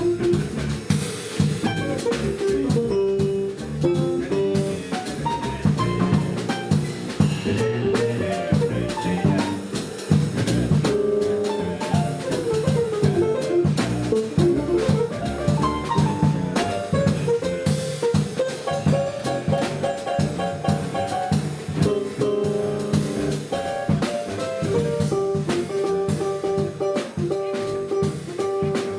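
Jazz quintet playing: a drum kit keeps a busy beat with cymbal and drum strokes under bass and melody instruments.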